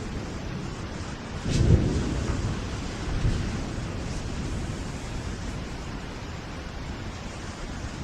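Steady rain with a clap of thunder about one and a half seconds in, a sharp crack followed by a low rumble, and a weaker rumble about a second and a half later.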